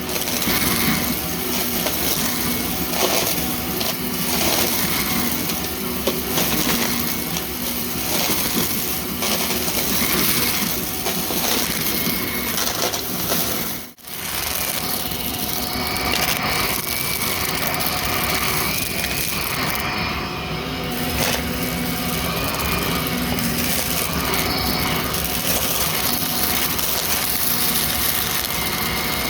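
Vacuum cleaner with a clogged brushroll running steadily, its motor whining over a loud rushing of air, cutting out for an instant about halfway through.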